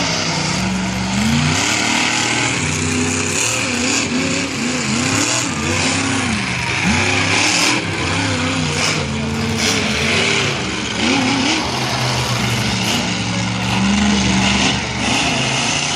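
Monster truck engines revving loudly, their pitch rising and falling again and again.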